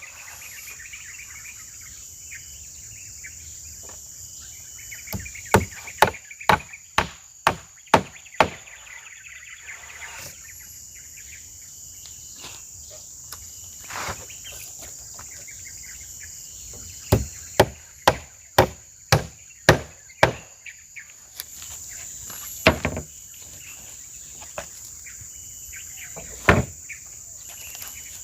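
Hammer blows driving nails into wood, in two runs of about two strikes a second with a few single blows between. A steady high insect chirring runs underneath.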